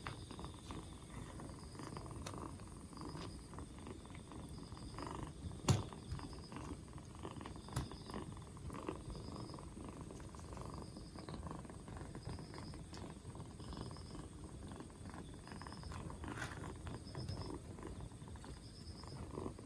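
A two-month-old kitten purring steadily, with a single sharp click about six seconds in.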